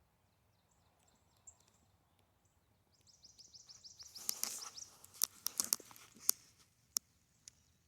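A small songbird's fast trill of short falling chirps starts about three seconds in. Over the following three seconds a run of sharp clicks and crackles comes over it, the loudest sounds here.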